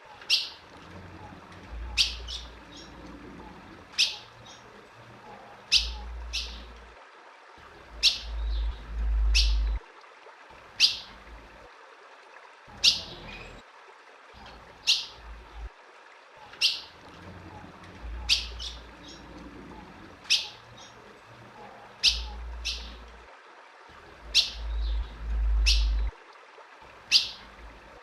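Female ultramarine grosbeak (azulão) giving sharp, short, downslurred chip calls, one every second or two and often in quick pairs. A low rumble swells twice beneath the calls.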